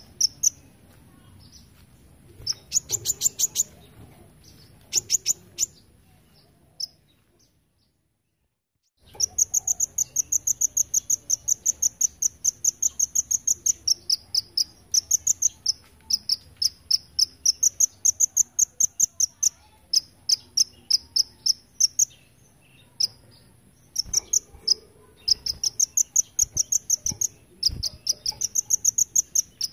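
Kolibri ninja (sunbird) singing long runs of rapid, sharp, high chips, about five a second, in the insect-like 'belalang emas' (golden grasshopper) style that bird-contest judges favour. The runs break off in short pauses, with a brief dead silence about eight seconds in.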